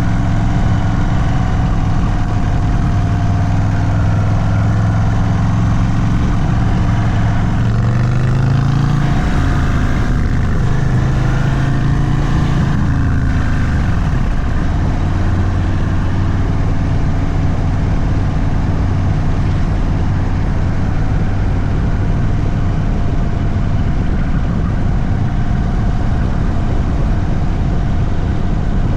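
Indian Sport Chief's Thunderstroke 116 V-twin running through a Sawicki Speed aftermarket exhaust at an easy riding pace. The revs climb briefly about eight seconds in, drop back, then hold steady.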